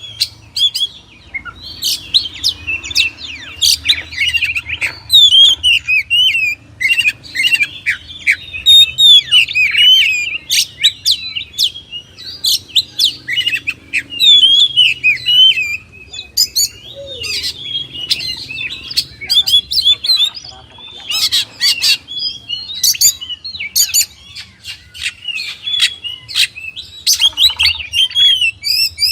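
Oriental magpie-robin (kacer) singing: a loud, rapid, varied run of chirps, whistles and sharp clicking notes that barely pauses.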